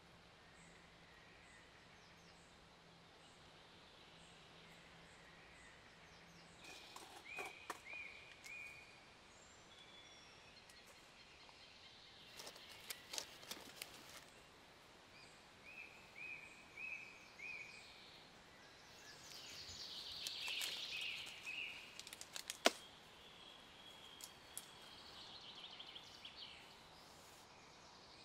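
Quiet woodland ambience with a small bird chirping in short runs of three or four notes, heard twice. Scattered soft crackling and rustling, with one sharp click in the last third.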